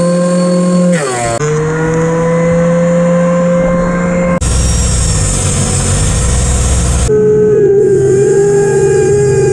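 Electric woodworking power tools running, with a steady motor whine. About four seconds in, a harsher stretch of cutting or sanding noise comes in, and a few seconds later another tool with a higher whine takes over. The sound changes abruptly between them.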